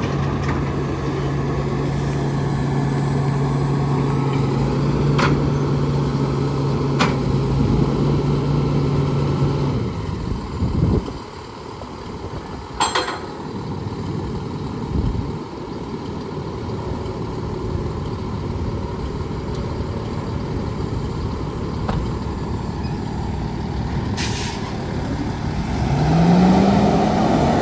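Freightliner M2 grapple truck: a steady low hum cuts off about ten seconds in. Short hisses of released air follow, and a rising whine comes near the end.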